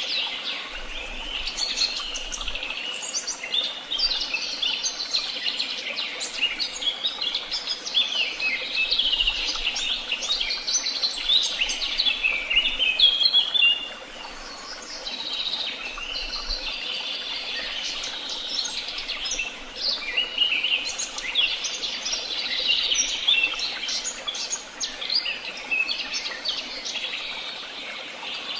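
Many songbirds singing at once: a dense chorus of overlapping chirps, trills and whistles that eases off briefly about halfway through.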